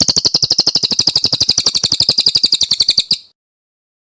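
A cililin songbird singing one long, rapid, even trill of about a dozen high notes a second, which cuts off about three seconds in.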